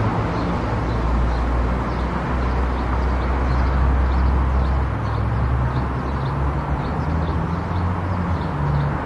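A car driving on a highway: steady tyre and engine drone with a light, regular ticking, about two to three ticks a second.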